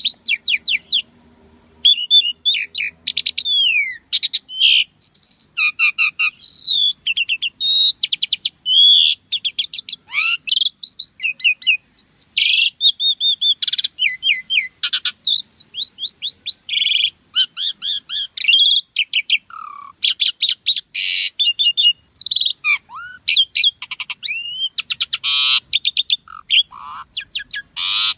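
Asian pied starling (jalak suren) singing a long, dense, unbroken song. It is a varied run of whistled up-and-down glides, short chirps and fast rattling trills.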